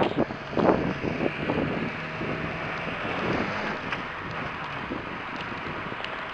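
Wind buffeting the microphone: a few irregular gusts in the first two seconds, then a steady rushing noise that slowly fades.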